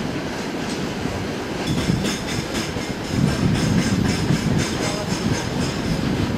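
Railway freight wagons rolling on the track: a steady low rumble, with a run of wheel clacks over the rail joints starting about two seconds in.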